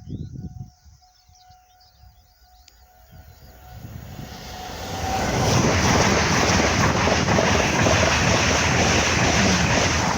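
A train approaching and passing close by at speed: a broad rush of wheel and air noise that swells over about two seconds and then stays loud. Faint birdsong can be heard before it arrives.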